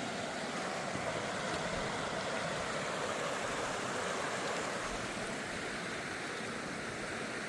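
Steady rush of water from a mountain stream, unchanging throughout.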